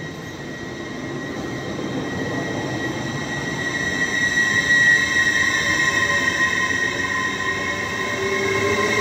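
LNER Class 800 Azuma train moving off along the platform, growing louder, with a steady high whine over the running rumble. Near the end a lower tone rises in pitch as it gathers speed.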